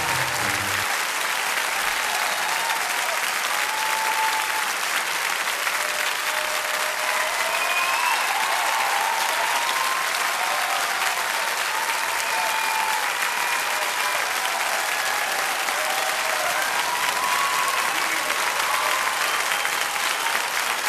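Theatre audience applauding steadily at the end of a performance.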